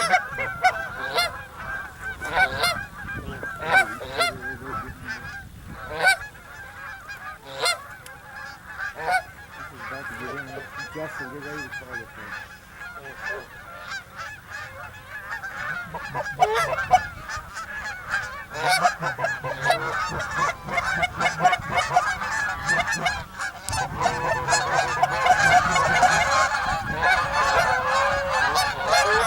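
A flock of geese honking, many overlapping calls. The calls grow louder and denser near the end as the chorus swells.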